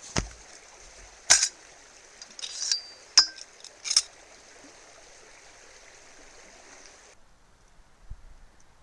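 River water running steadily, with several sharp knocks and a clink in the first four seconds. The water sound cuts off abruptly about seven seconds in.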